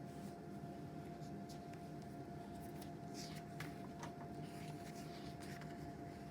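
Faint rustling and small taps of a picture book being handled and opened, over a steady low electrical hum with a thin whine.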